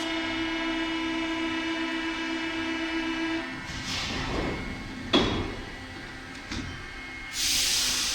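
Paris Métro line 3bis train at the platform: a steady humming tone stops about three and a half seconds in, followed by short air hisses, a sharp clank and a click, then a loud hiss of air near the end.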